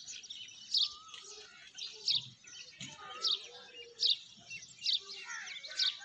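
A small bird chirping a sharp, high single note over and over, about once a second, with fainter calls of other birds behind it.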